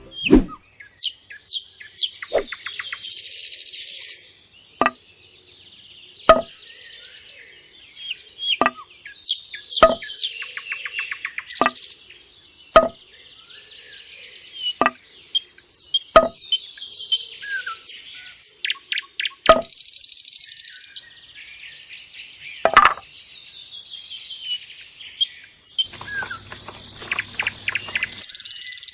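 Birds chirping and trilling, with a sharp knock every one to three seconds.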